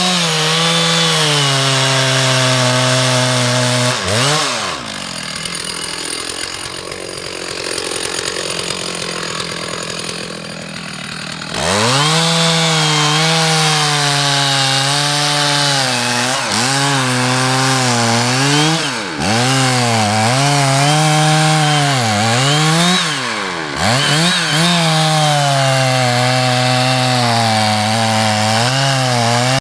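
Two-stroke chainsaw running at high revs and cutting wood, its pitch dipping again and again as the chain bites under load. About four seconds in it drops off to a quieter sound for about seven seconds, then revs back up.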